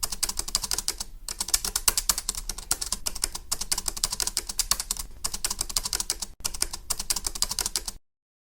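Rapid typing on a computer keyboard, a dense run of key clicks with a few brief pauses, cutting off suddenly near the end.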